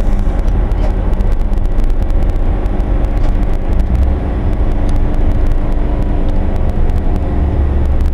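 Daewoo 'Sprinter' diesel railcar heard from the driver's cab: a steady low diesel rumble with many short clicks from the wheels on the track.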